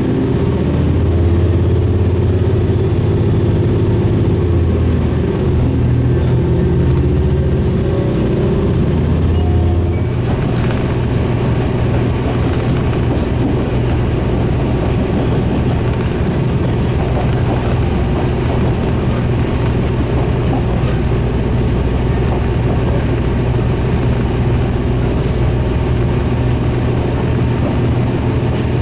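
A diesel railcar running on the San'in Main Line, heard on board. The engine's low drone is strong at first and changes about ten seconds in, leaving a steady rattling rumble of the train running on the rails.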